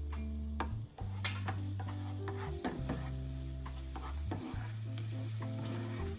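Water spinach stir-frying in a pan: a utensil scrapes and clacks against the pan in quick irregular strokes over a steady sizzle. Background music with long, low held notes plays underneath.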